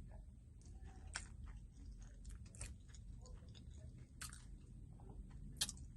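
Faint chewing with soft wet mouth clicks and lip smacks, a few scattered clicks a second or so apart.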